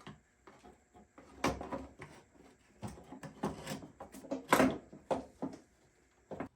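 Irregular metal clunks and knocks as a motorcycle's exhaust pipe is handled and fitted onto the bike, the loudest about four and a half seconds in.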